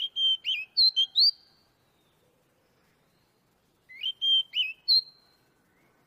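Magpie-robin singing two short phrases of clear whistled notes, one right at the start and one about four seconds in. Each phrase is a quick run of level whistles and sharp slurred notes.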